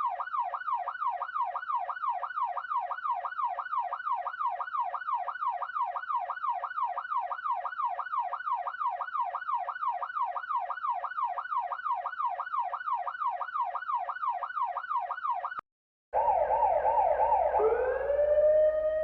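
Electronic police siren on its fast yelp setting: a rapid, even up-and-down sweep about three times a second. Near the end it cuts off briefly and a second police siren comes in over a low rumble, yelping for a moment and then rising into a long wail.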